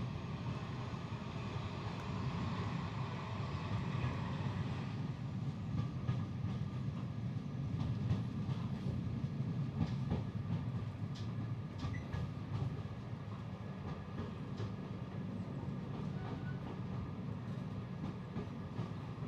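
Passenger train hauled by a Class 55 diesel locomotive running along the line, heard from inside a carriage. It gives a steady low rumble, with scattered sharp clicks from the wheels over the track in the second half.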